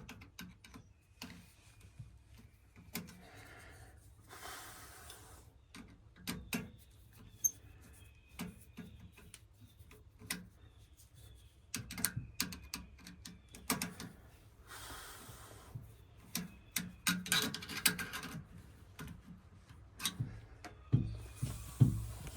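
Scattered light clicks, taps and rustles of hand tools and wires being handled while electrical wiring is disconnected, with a run of sharper knocks near the end.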